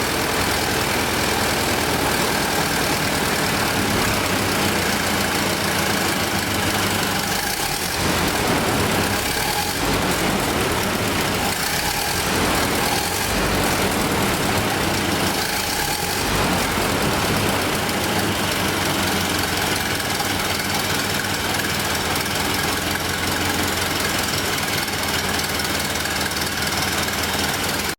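1931 Ford Model A's original four-cylinder flathead engine running steadily, with a few brief changes in its sound partway through.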